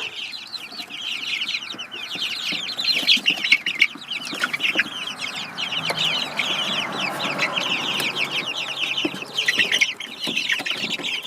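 A flock of young chickens peeping and chirping without pause: many short, high, falling notes overlapping, the agitated ruckus of chicks disturbed in their coop. A few light knocks come through about four to five seconds in and again near nine seconds.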